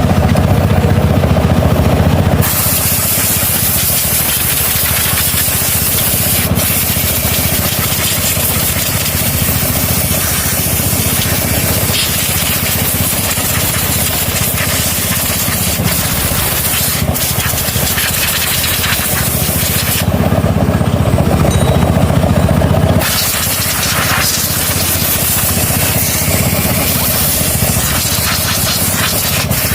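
Loud, steady hissing workshop noise. Two short stretches, near the start and about two-thirds of the way in, carry a heavier low rumble like an engine running.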